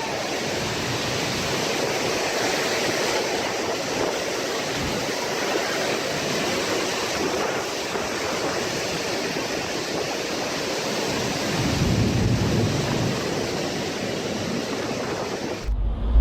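Derecho windstorm: a steady rush of strong wind, with a low rumble swelling about twelve seconds in. The sound cuts off abruptly just before the end.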